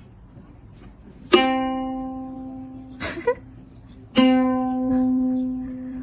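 Two single plucked notes on a string instrument, both at the same pitch, each starting sharply and ringing as it slowly fades. The first comes about a second in, the second about four seconds in, with a brief faint sound between them.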